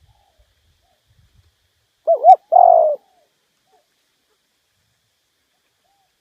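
Spotted dove cooing once: two short rising-and-falling notes followed straight away by one longer note. It is the male's song, played as a lure call.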